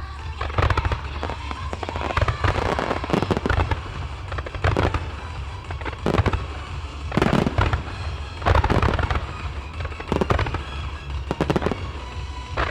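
Aerial fireworks shells bursting one after another, each burst followed by crackling, with music playing underneath.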